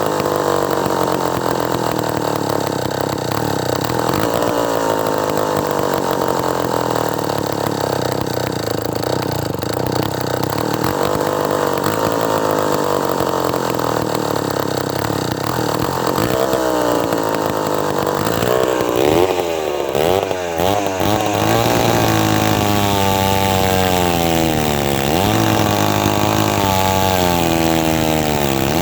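David Bradley 5G-21 two-stroke chainsaw engine running, fairly steady at first; from a little past halfway its speed dips and climbs back again and again, settling at a higher pitch between the dips.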